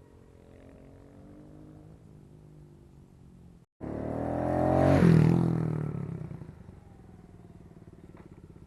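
Kawasaki KLX110 pit bike's small single-cylinder four-stroke engine: running faintly at a distance, then after an abrupt cut it rides close past, its sound rising to a loud peak and dropping in pitch and level as it moves away.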